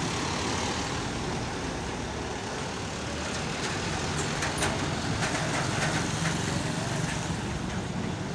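Steady road traffic noise with motor vehicles running by, including a heavy truck. A few short, sharp clicks or clinks come in the middle.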